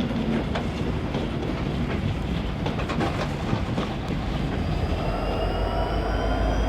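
A train running along the rails, with a steady rumble and a few wheel clicks, then from about halfway through a whine rising in pitch as a locomotive accelerates away.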